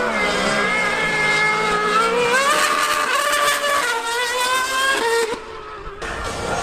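High-revving racing engine at full throttle, its pitch climbing and falling several times through gear changes, briefly quieter near the end.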